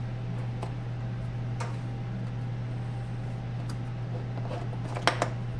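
Scattered light clicks and taps of tools and hardware as electrical connections are undone, with two sharper clicks close together about five seconds in, over a steady low hum.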